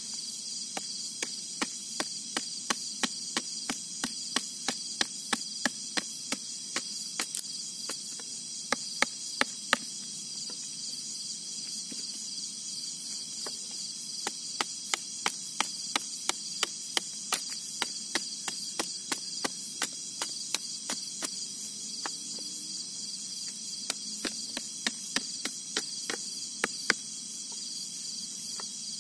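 Steady chorus of crickets and other insects chirping, with a regular series of sharp knocks, about two a second, that pauses for a few seconds near the middle.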